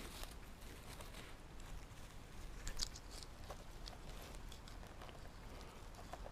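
Footsteps on forest-floor litter: faint, scattered crackles and snaps of dry leaves and twigs, with one sharper snap just before three seconds in.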